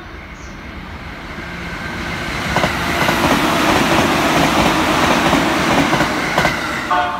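209 series 'B.B.BASE' electric multiple unit passing through the station at speed. The rush of its wheels on the rails swells over the first few seconds and then stays loud, with a few sharp clacks as the wheels cross rail joints.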